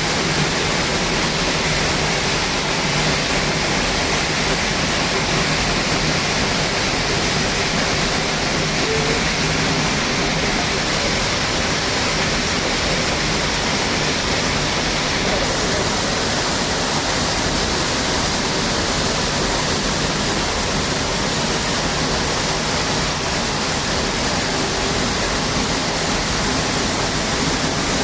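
Large waterfall's plunging water making a loud, steady roar. Its tone shifts slightly about halfway through.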